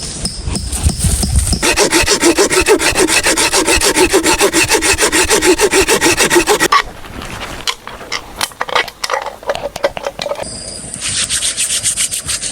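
Wood being scraped or sawn in a fast, even rhythm of rapid strokes for several seconds. This gives way to a few irregular knocks and clicks, then a steady high insect drone near the end.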